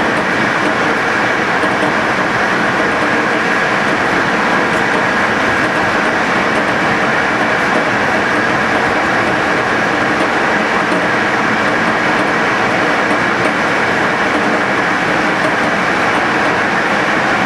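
Passenger train running steadily along the line, a constant even rumble and rush of wheels on rails with no change in pace.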